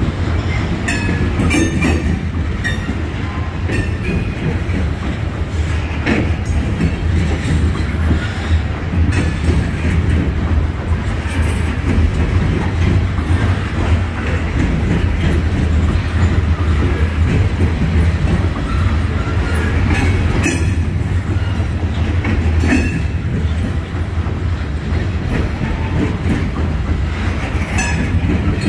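Norfolk Southern coal hopper cars of a freight train rolling past close by: a steady, loud rumble of wheels on rail, broken by sharp clacks as the wheels cross rail joints.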